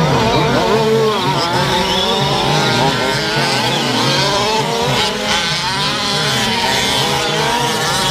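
A pack of 1/5-scale gas RC trucks' small two-stroke engines racing together, several high buzzing notes overlapping and rising and falling as the throttles open and close.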